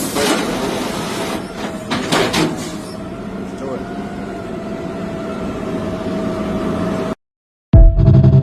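Garbage truck running, with a steady whine and a couple of clunks as the automated arm releases the bin. The sound cuts off suddenly near the end and a loud burst of music starts.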